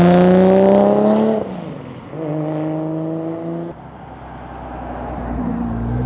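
Car engine revved hard twice. The first rev starts suddenly, climbs a little in pitch and falls away as the throttle closes. The second is held at a steady pitch and cuts off sharply, and a quieter engine note builds again near the end.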